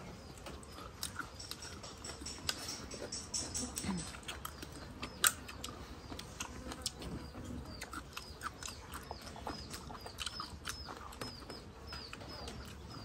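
A small bird chirping over and over, a short high note repeated about twice a second, with a quicker run of chirps early on. Scattered sharp clicks of spoons against plates and bowls, the loudest about five seconds in.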